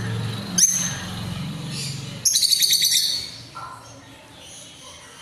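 Pet birds chirping: one sharp chirp about half a second in, then a quick run of chirps around two to three seconds in.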